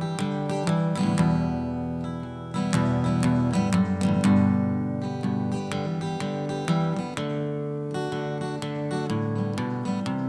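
Acoustic guitar strumming chords at a steady rhythm, the instrumental intro of a singer-songwriter's song before the vocals come in.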